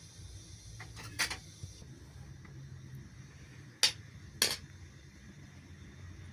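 Three sharp clinks of kitchenware, dishes or utensils knocking together: one about a second in and two close together around four seconds in, over a faint low hum.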